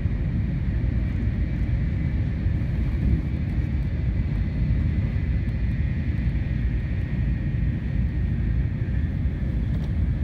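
Inside the cabin of a Shinkansen bullet train running at high speed: a steady low rumble with a faint steady high whine above it.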